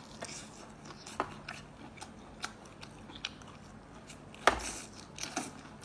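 Close-up chewing of crayfish, with irregular sharp clicks and crunches of shell and one louder crunch about four and a half seconds in.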